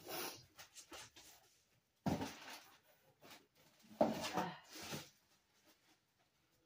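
Packaging handled and torn open by hand: three bursts of rustling and tearing, near the start, about two seconds in and about four seconds in.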